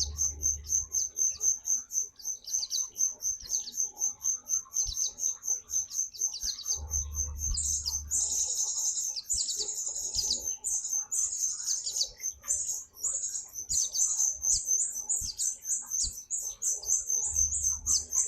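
White-eye (pleci) singing: a rapid run of high, even chirps, several a second, breaking into a denser warbling trill about a third of the way in and again a little later. A low rumble lasting about a second comes three times, at the start, near the middle and near the end.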